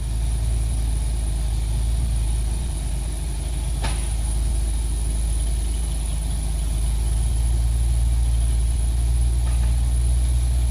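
Heavy truck's diesel engine running steadily with a deep, low rumble, growing a little louder over the last few seconds. A single short click about four seconds in.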